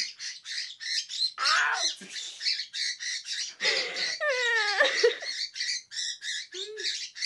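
Pet bird chirping continuously, short high calls several times a second, with a couple of longer falling cries in the middle.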